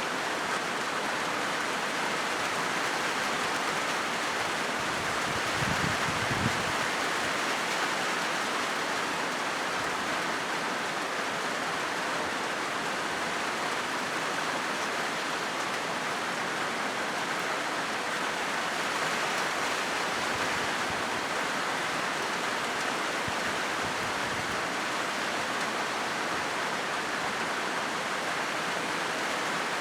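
Rain falling steadily on a corrugated zinc roof: a dense, even hiss of drops on the metal sheets. A brief low thump comes about six seconds in.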